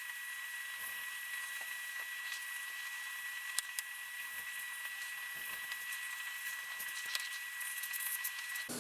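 Hot air rework station blowing, a steady hiss with a thin high whine, heating a heat-shrink sleeve onto a lithium-ion battery cell. The hiss and whine stop just before the end.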